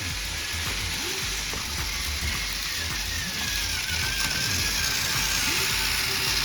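Battery-powered Tomy and Trackmaster toy trains running on plastic track: a steady whirr and rattle of small motors and gears, with a faint wavering whine.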